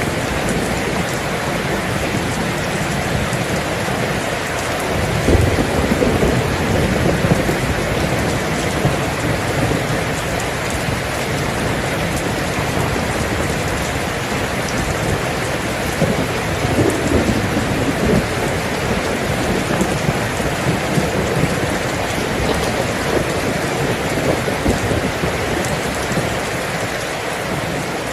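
Steady rain falling, with low rumbles of thunder swelling about five seconds in and again around sixteen seconds.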